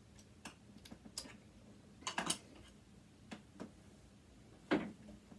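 Scattered light clicks and taps of a screwdriver working against metal parts, with a sharper knock near the end.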